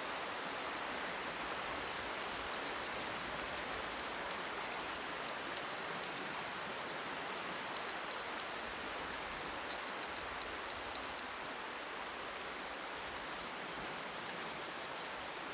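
Steady rushing of a river, with clusters of quick, sharp high scratches and clicks over it through most of the stretch.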